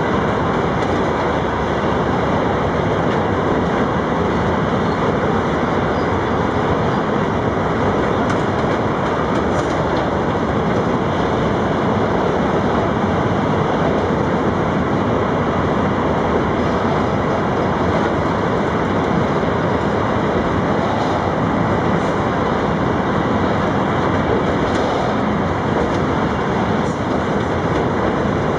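Freight train rolling past on the track, a loud, steady rumble of wagons on the rails.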